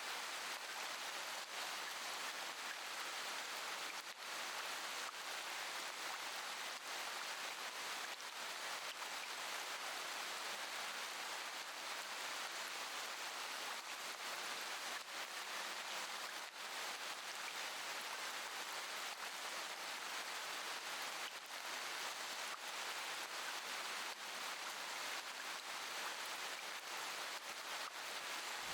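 Steady rain falling, an even hiss with scattered faint drop clicks.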